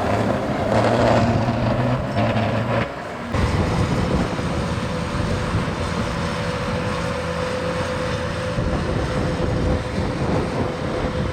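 Motor vehicle engines running steadily with road and wind noise; the sound changes abruptly about three seconds in, and a steady hum continues after.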